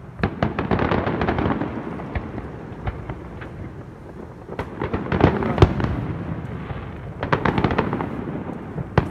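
Aerial fireworks shells bursting, with rapid strings of bangs and crackles in three flurries: starting about a quarter second in, again around five seconds, and again around seven and a half seconds.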